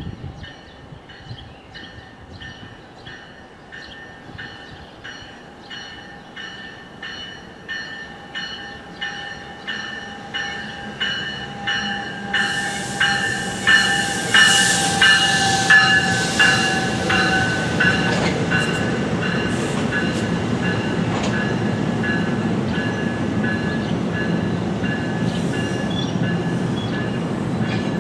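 NJ Transit Multilevel push-pull commuter train approaching and passing, cab car leading. Its bell rings about twice a second and grows louder as it nears. From about halfway there is a hiss, then the steady rumble of the coaches rolling past.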